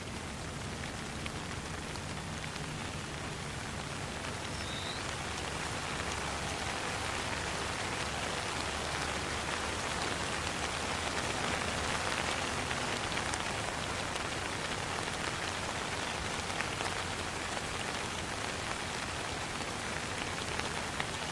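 Steady rain falling, a continuous hiss with scattered drop ticks through it. It grows a little louder toward the middle.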